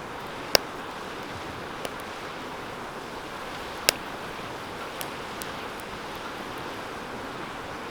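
Wood bonfire burning in a steel fire pit: a steady rushing hiss of flames with a few sharp pops and cracks, two loud ones about half a second and about four seconds in.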